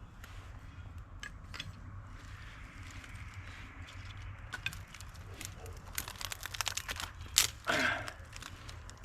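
Small campfire of twigs and tinder crackling and snapping as it is lit. The clicks are scattered at first and grow busier in the last few seconds, with one sharp snap and a short rasp near the end, over a low steady rumble.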